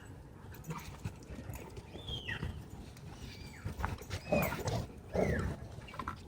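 Dogs wrestling at play: three short high cries that fall in pitch, about two, four and five seconds in, over scuffling.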